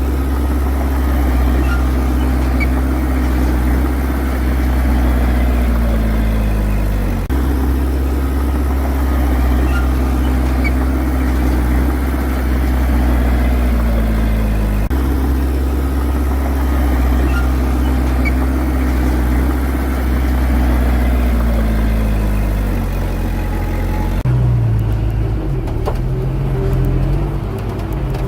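Heavy diesel engine of earthmoving machinery running steadily, with a deep hum and a slowly falling note in each stretch. The sound jumps abruptly about every seven or eight seconds, and near the end a different, lower engine sound takes over.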